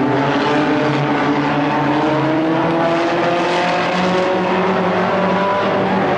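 Several stock car engines running together on the track, their pitches climbing slowly as the cars accelerate.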